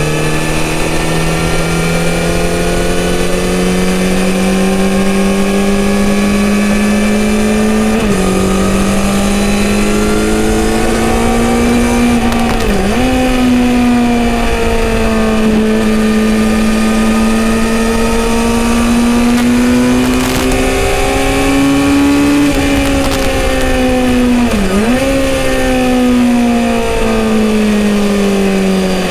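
Kawasaki Z900RS inline-four motorcycle engine running through a full-system exhaust while riding, its note climbing slowly, with three brief sharp dips in pitch.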